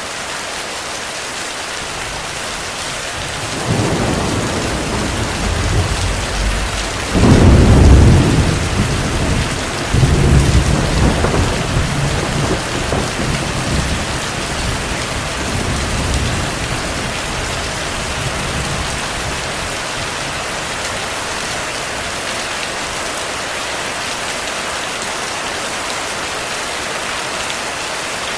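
Heavy rain falling steadily, with a roll of thunder: the rumble builds about three and a half seconds in, peaks a few seconds later, surges once more, then rolls away over the next several seconds.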